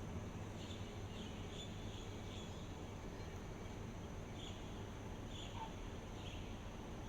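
Outdoor ambience: a steady hiss and low rumble with a continuous high-pitched drone, and short high chirps recurring every second or so.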